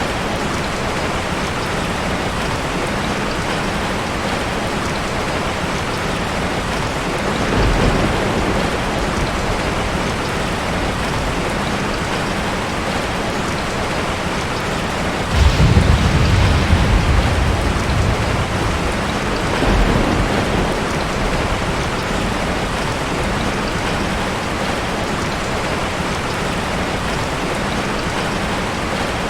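Heavy rain falling steadily, with thunder rumbling three times: a low roll about 8 seconds in, a louder, sudden clap about 15 seconds in that rolls on for a few seconds, and a fainter rumble about 20 seconds in.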